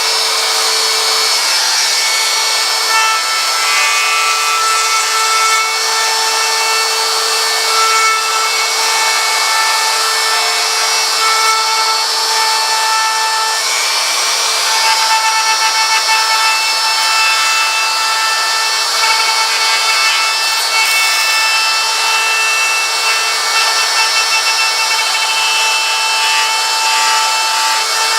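Electric router running steadily, its bit cutting a wide groove about a quarter inch deep into a wooden sign around the carved detail. A steady whine over the cutting noise, its pitch shifting slightly as the cut goes on.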